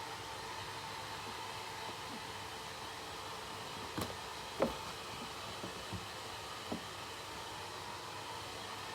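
Steady hiss with a faint hum, like a fan or air conditioner running. A few light knocks and taps come about halfway through, one a little louder than the rest.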